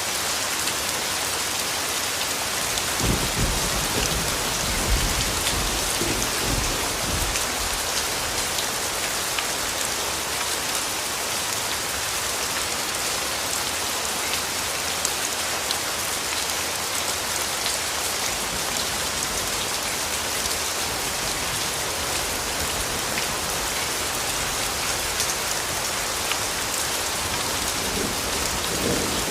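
Steady rainfall pattering on foliage and ground, with a low rumble of distant thunder rolling for several seconds about three seconds in.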